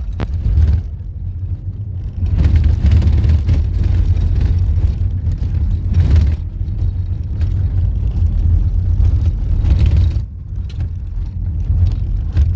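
Car driving on a road, heard from inside the cabin: a steady low rumble of engine and tyres with road hiss that swells and fades.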